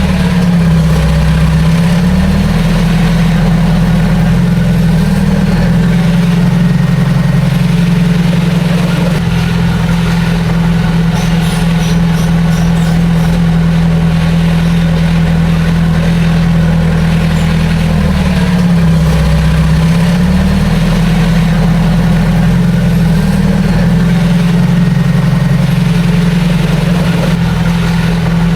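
Heavy diesel engine of an earthmoving machine running steadily. Its note sags briefly and recovers twice: about a second in, and again about two-thirds of the way through.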